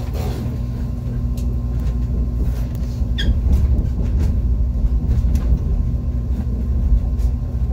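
Running noise inside the cabin of an ITX-Maum electric multiple-unit train: a steady low rumble with a steady hum and a few faint clicks. A brief high squeak comes about three seconds in.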